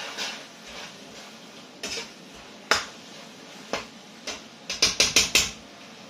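A cooking utensil clinking and scraping against a wok as a stir-fry is stirred: scattered single knocks, then a quick run of about six knocks near the end.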